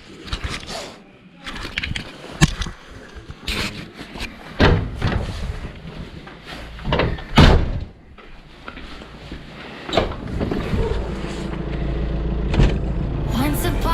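A run of irregular knocks and clunks, with a low steady rumble building in over the last few seconds.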